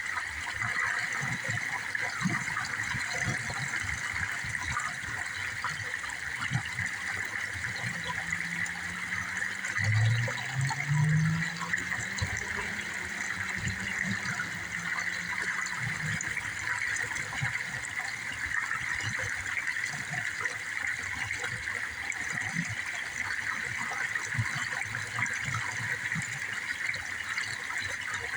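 Steady rush of running water, like a stream or small waterfall. Partway through, a low humming tone rises and falls for several seconds.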